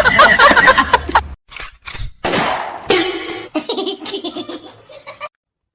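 People laughing in several short bursts, broken off abruptly a few times.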